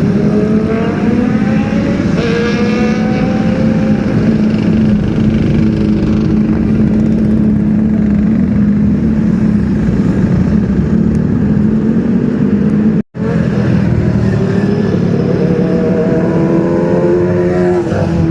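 Superbike engines idling with a steady drone, and a rising rev of the throttle in the first few seconds and again near the end. The sound cuts out for a moment about two-thirds of the way through.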